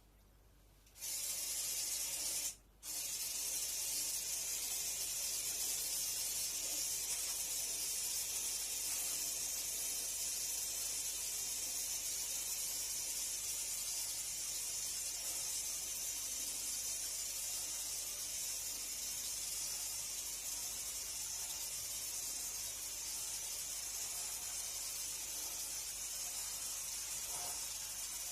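Cleaning spray hissing steadily as it is sprayed for air-conditioner cleaning. It starts about a second in, stops for a moment, then runs on without a break.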